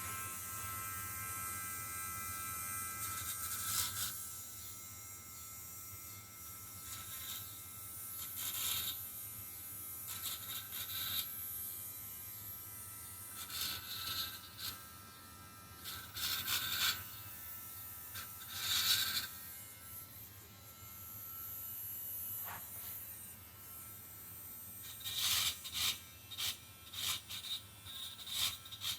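Cheap handheld rotary tool running with a steady high whine while its bit grinds burrs off the edges of an engine block. The grinding comes in irregular louder scraping bursts, more of them in the second half.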